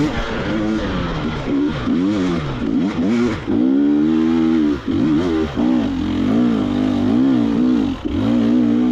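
Two-stroke KTM 300 XC-W dirt bike engine revving up and down again and again as the throttle is worked on a trail, with brief drops in revs about five and eight seconds in.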